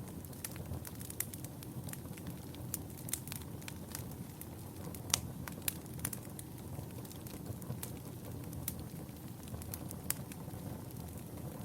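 Wood fire burning in a fireplace: a steady low rumble of flames with irregular sharp crackles and pops, the loudest pop about halfway through.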